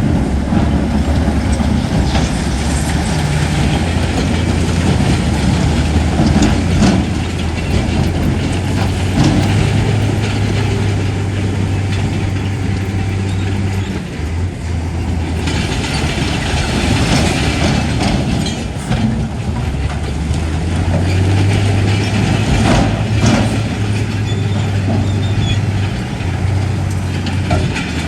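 Crawler bulldozer's diesel engine running steadily, pulling harder in a couple of stretches, with the irregular clatter of its steel tracks.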